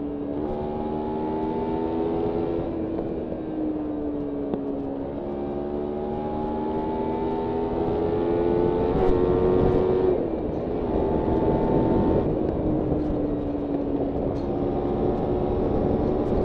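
Kawasaki Ninja 300 parallel-twin engine pulling through the gears on a ride, its pitch climbing slowly and then dropping suddenly at several gear changes. A steady rush of wind runs underneath.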